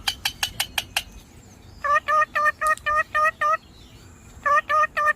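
Pet parrot calling: a quick burst of sharp chirps, then two runs of short, evenly repeated screeching notes at about five a second.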